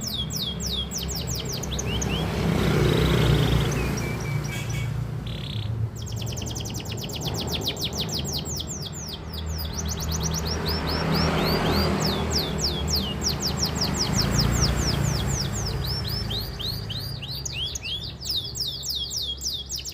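Canary singing: fast trills of short, repeated down-slurred whistled notes, broken a few seconds in by a couple of brief held notes.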